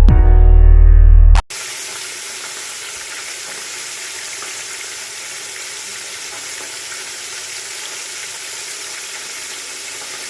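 A short burst of electronic music with heavy bass, cut off suddenly about a second and a half in, then the steady sizzle of floured chicken strips deep-frying in hot oil.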